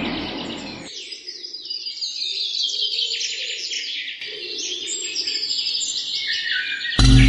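Forest birds chirping and calling, with many short high notes overlapping and a run of notes stepping down in pitch. Music fades out in the first second, and loud music cuts in abruptly near the end.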